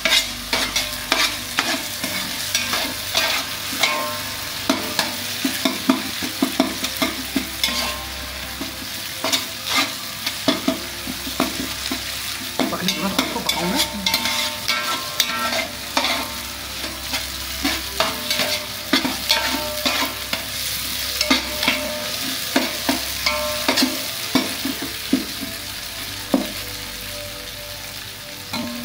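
Chopped onions, chillies and whole spices sizzling in oil in a large aluminium pot, the onion tempering for kadhi, while a metal ladle stirs them with frequent irregular scrapes and knocks against the pot.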